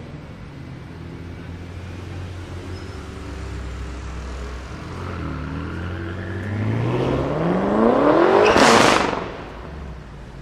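Straight-piped twin-turbo V8 of a modified BMW M5 F10, first a low steady rumble, then accelerating hard with its note climbing in pitch to a loud peak about nine seconds in, before falling away quickly.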